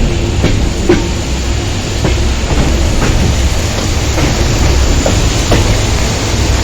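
Passenger train running: a steady low rumble with scattered clicks of the wheels over the rail joints.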